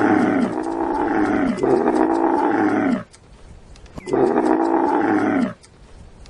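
A big cat roaring, a run of long roars that each slide down in pitch, with a short pause about three seconds in before one more roar.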